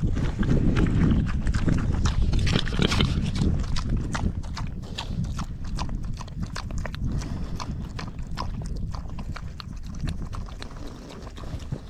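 Idaho Pasture Pigs and piglets crunching and chewing grain feed: a rapid, irregular run of small crisp clicks over a low rumble, getting somewhat quieter toward the end.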